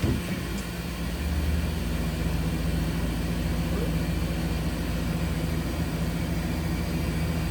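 Mazak VCN 410A CNC vertical machining center running with a steady mechanical hum that steps up about a second in, then holds level.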